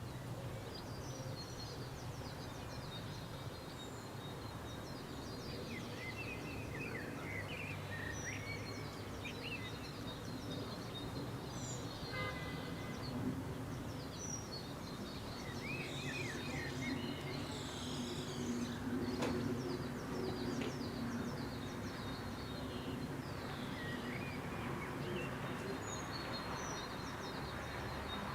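Several small birds chirping and singing in short, high phrases over a steady low background rumble.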